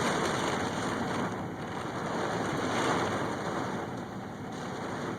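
Thunderstorm rain and gusting wind: a steady rushing hiss that swells a couple of times and eases near the end.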